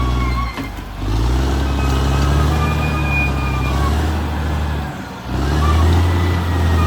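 Caterpillar D6R XL bulldozer's diesel engine running under load, with thin high squealing tones above it. The sound briefly drops away twice, about half a second in and about five seconds in.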